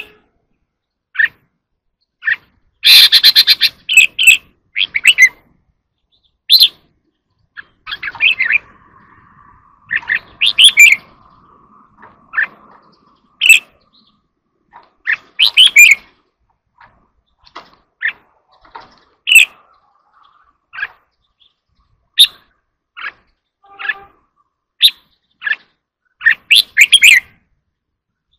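Red-whiskered bulbul singing short, loud, separate phrases with pauses between them, including a quick rattling burst about three seconds in.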